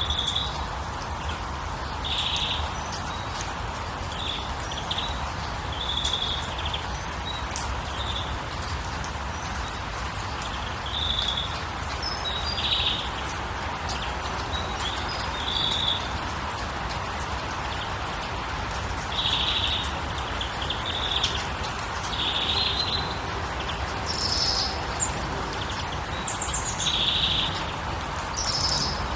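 Birds chirping in short calls every second or two, a few higher-pitched ones near the end, over a steady rushing background hiss.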